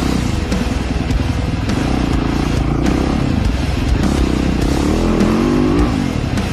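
Dirt bike engine running and revving, pitch rising about five seconds in, with scattered clattering over it.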